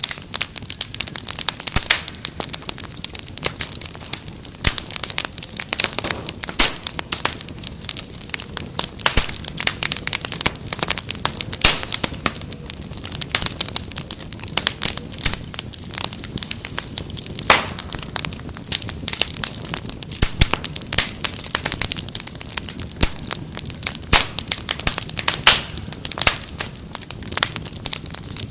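Wood fire crackling steadily: many irregular sharp pops and snaps over a low, even hiss.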